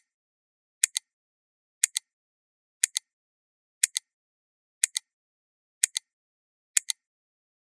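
Sharp double ticks, about a tenth of a second apart, repeating once a second with dead silence between them: a clock-like tick-tock.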